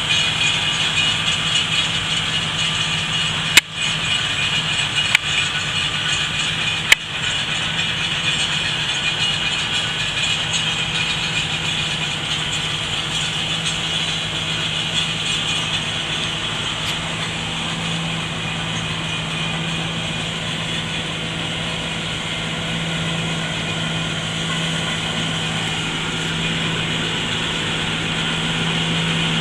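Tractor engine running steadily at a constant speed, with three sharp clicks in the first seven seconds or so.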